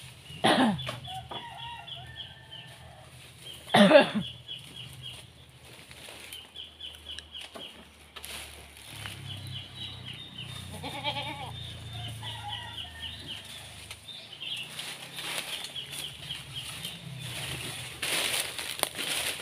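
Birds calling: runs of quick high chirps repeat throughout, with a lower clucking call about eleven seconds in. Two loud sudden sounds stand out, about half a second in and again about four seconds in.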